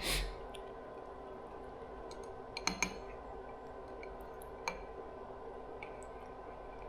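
Quiet eating sounds from a bowl of instant noodles: a brief wet mouth sound at the start, then a few light clicks of utensils against the bowl a little under three seconds in and one more near five seconds, over a faint steady hum.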